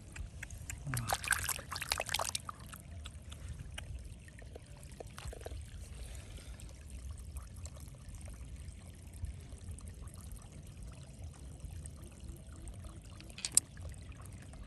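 Water splashing and trickling, with a louder burst of splashing about a second in, then quieter trickling with small clicks. A single sharp click near the end is the loudest sound.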